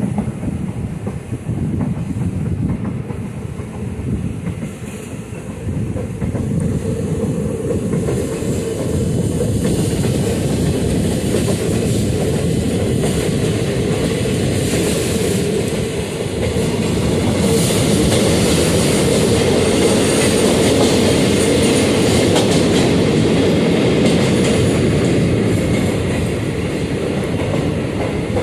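Passenger express train running, its wheels clattering over the rail joints, heard from the open door of a coach. The noise grows louder and fuller about six seconds in and again after about ten seconds.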